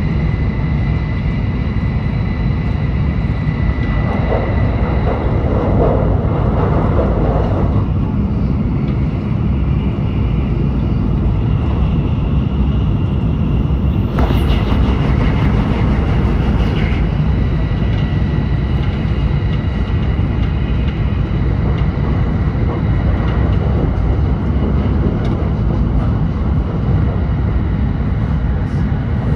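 Tokaido Shinkansen Nozomi train heard from inside the passenger cabin at high speed: a steady low rumble with a thin, steady high whine over it, and a sudden rush of added hiss about halfway through.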